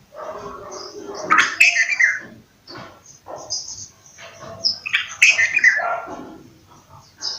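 Bulbul calling: two loud bouts of quick chattering, bubbly calls, the first about a second and a half in and the second about five seconds in, with quieter calls between.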